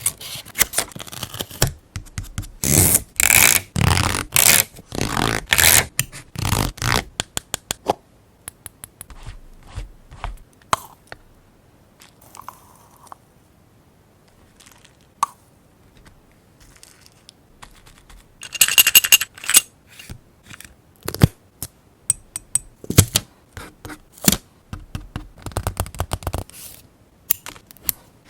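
Close-up paper-craft handling sounds: paper and stickers rubbed and scraped in groups of strokes, quick light clicks and taps, with a quiet stretch in the middle.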